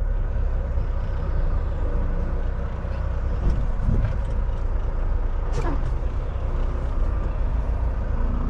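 Semi-truck diesel engine running steadily at low speed or idle, with a short falling squeal a little past halfway.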